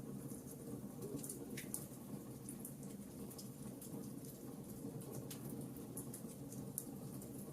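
Wood fire crackling, with scattered sharp pops and snaps over a steady low rush of rain.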